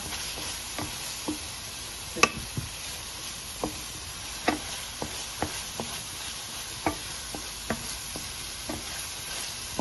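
Whole spices and a pale paste sizzling in hot ghee in a stainless steel pan, stirred with a wooden spatula. The spatula knocks and scrapes against the pan about once a second, irregularly, the loudest knock a little over two seconds in.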